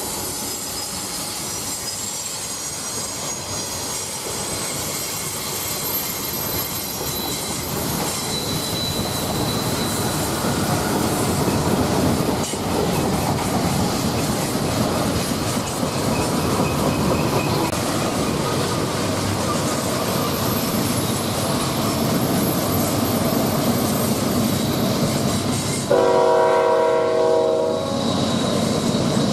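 Freight train rolling past on steel rails, a steady rumble that grows louder, with thin high wheel squeal. About 26 seconds in, a locomotive air horn sounds for about two seconds.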